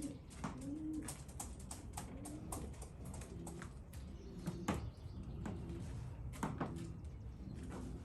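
Racing pigeons cooing in the loft, a low rising-and-falling coo repeated several times, with scattered sharp taps and clicks among them.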